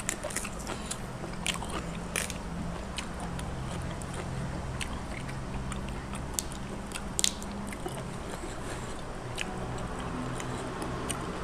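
Close-up eating sounds: a person biting and chewing crisp raw bok choy, with scattered sharp crunches and mouth clicks. A steady low hum runs underneath.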